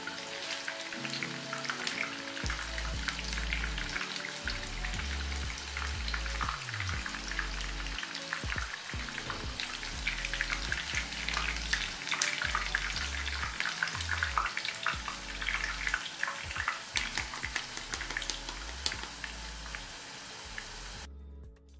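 Chicken nuggets frying in shallow hot oil in a pan, a dense, steady crackle and sizzle that cuts off just before the end.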